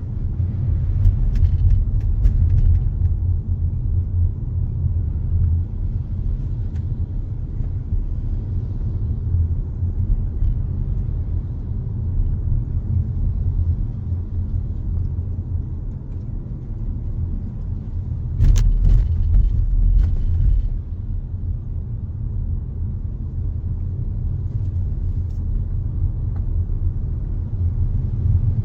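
Steady low rumble of a car driving, heard from inside through a dashcam's microphone. A few short knocks come near the start, and about two-thirds of the way through there is a louder couple of seconds with sharp knocks.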